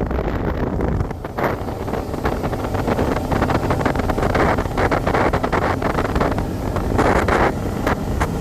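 Wind buffeting the microphone in a steady, gusty rush.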